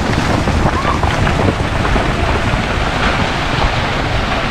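Loud, steady rushing and rumbling noise.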